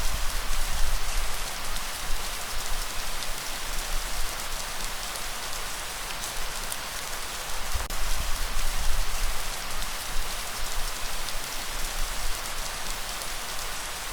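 Steady heavy rain, a dense even hiss of drops, with low rumbling swells underneath that rise in the first second and again about eight seconds in.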